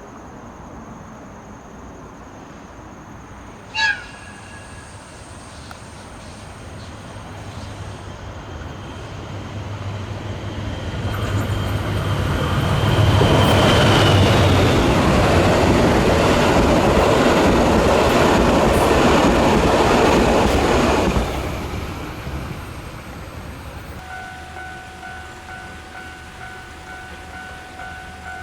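A train passing by on the line. A short horn blast sounds about four seconds in. The rumble of wheels on rail then builds over several seconds, stays loud for about eight seconds and falls away sharply as the train clears.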